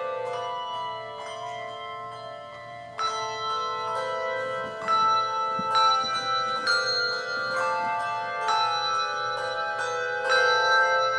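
Handbell choir playing a piece: chords of struck bell notes that ring on and overlap. A louder group of notes comes in about three seconds in.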